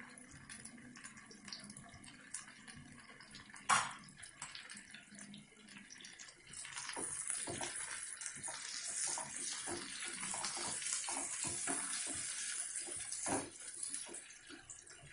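Garlic cloves, shallots and curry leaves sizzling in sesame oil in a kadai, with a wooden spatula stirring and scraping against the pan. It is faint at first, with a single knock a few seconds in, and the sizzle grows louder and steady about six and a half seconds in.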